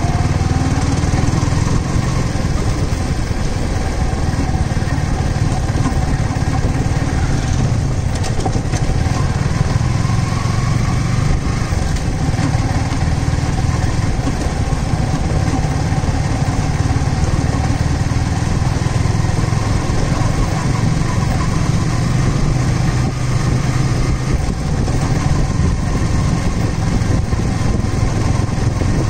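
Yamaha R15 V3's 155 cc single-cylinder engine running steadily at low road speed, heard from the rider's seat.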